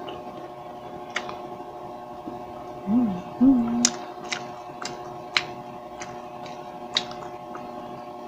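Close-miked eating sounds: sharp, wet mouth clicks roughly every half second to a second as she chews, with two short hummed "mm" sounds about three seconds in. A steady background hum runs underneath.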